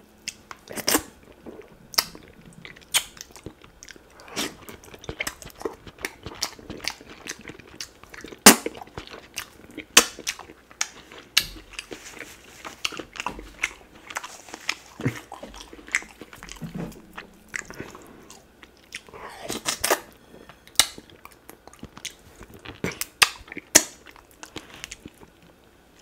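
Close-miked chewing and biting of duck meat coated in slippery ogbono-okra soup: irregular wet smacks and clicks from lips and mouth, with a few sharper, louder smacks.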